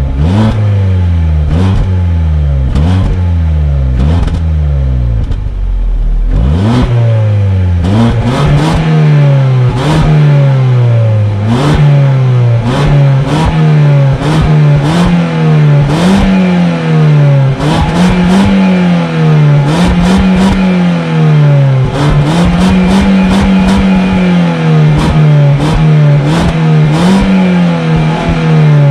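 Car engine revved over and over as the accelerator pedal is pumped, heard at the tailpipe. For the first six seconds the revs rise and fall in quick blips about once a second. After that they stay higher and swing up and down every second or two, with many short, sharp cracks throughout.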